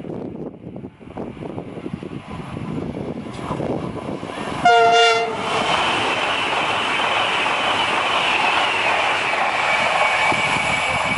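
PKP Intercity ED250 Pendolino electric high-speed train approaching with a growing rumble, then sounding one short horn blast of several tones together about four and a half seconds in. The loud, steady rushing noise of the train passing close by follows.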